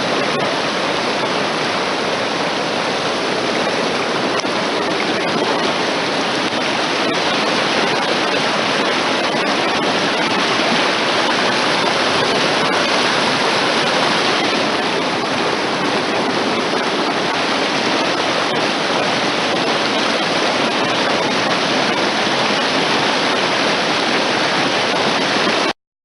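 Mountain stream flowing, a steady rush of water that cuts off suddenly near the end.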